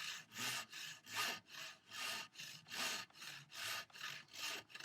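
Hand saw cutting through a thick wooden workbench leg in quick, even strokes, about three a second, near the end of the cut just before the offcut comes free.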